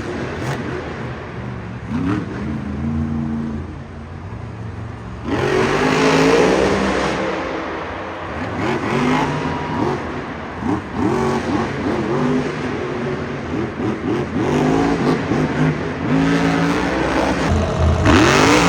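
Monster truck's supercharged V8 engine being revved hard again and again, its pitch climbing and dropping in quick surges. From about five seconds in it gets louder, with a broad rush of noise over the engine.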